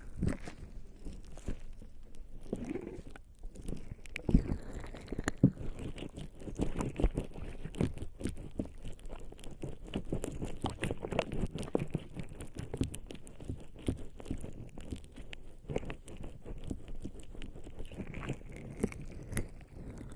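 Bare skin slick with lubricating jelly rubbing and scratching right against a microphone: a continuous wet, sticky crackle of many small irregular clicks, with a few louder ones.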